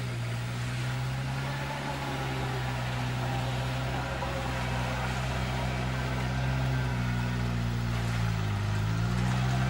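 Off-road 4x4's engine running steadily under load as it wades through a deep water-filled ditch, growing slowly louder as it approaches. Its note dips briefly near the end and then rises again.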